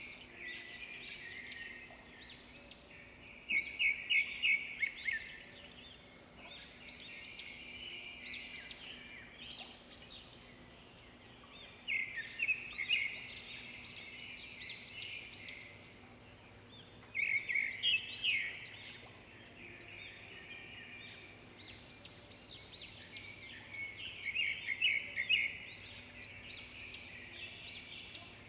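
Several songbirds chirping and calling without a break, with louder bursts of rapid, high-pitched chirping every few seconds.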